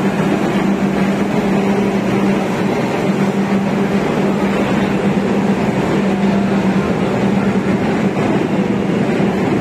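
Passenger train pulling slowly out along the platform, its cars rolling past with a steady low hum.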